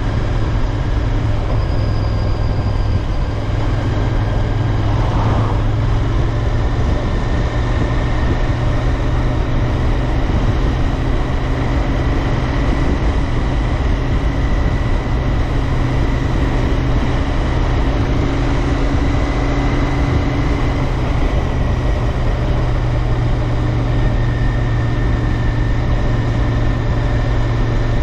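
Royal Enfield Interceptor 650's 648 cc parallel-twin engine running at a steady cruise, its pitch drifting only slightly, over an even rush of wind and road noise.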